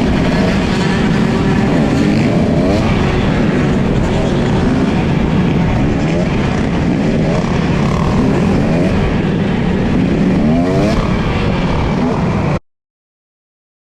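Motorcycle engines running under a loud steady roar, with revs rising and falling several times. The sound cuts off suddenly near the end.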